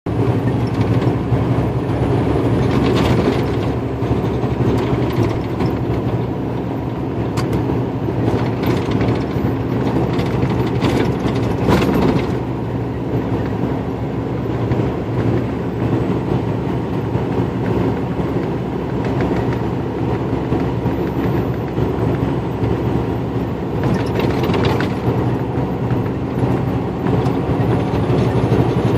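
Steady engine and road noise inside a moving semi-truck's cab at highway speed, with scattered short rattles and knocks now and then.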